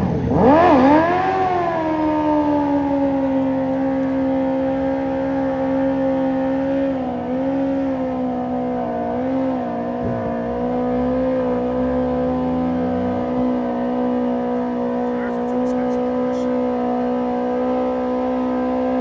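Sport motorcycle engine revved up and down a few times, then held at a steady high pitch. A second engine rises in pitch partway through.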